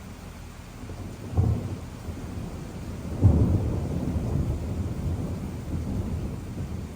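Thunder: a short crack about a second and a half in, then a louder crack a couple of seconds later that rolls on as a long low rumble, over a steady hiss of rain.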